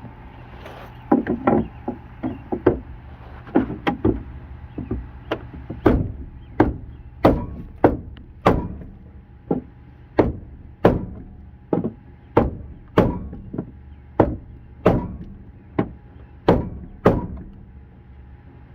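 Repeated hammer blows on the bent metal of a Jeep door as it is beaten back into shape. A few uneven hits come first, then a steady run of about one and a half blows a second.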